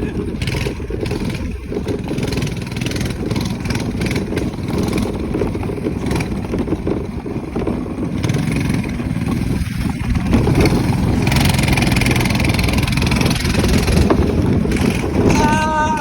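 Minibike's small engine running under way, getting louder from about ten seconds in.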